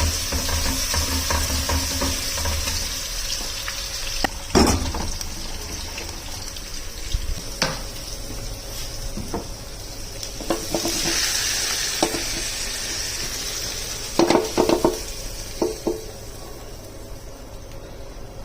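Food sizzling in a frying pan while being stirred, with a utensil knocking against the pan every few seconds and a quick run of knocks about three-quarters of the way through. The sizzle swells for a moment past the middle and dies down near the end.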